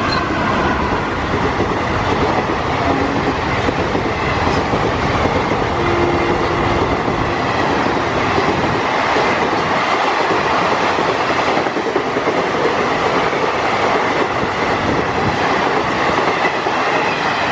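Indian Railways train running past at speed: a steady, loud rush of wheels and coaches with clickety-clack over the rail joints.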